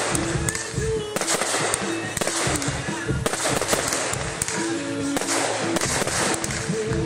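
Aerial fireworks going off in quick succession, bursting and crackling, over music playing throughout.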